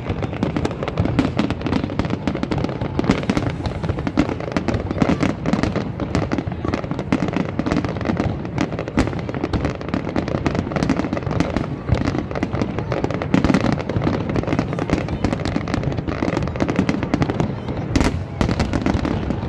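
Aerial fireworks going off in a dense, unbroken run of bangs and crackles, with one stronger bang near the end.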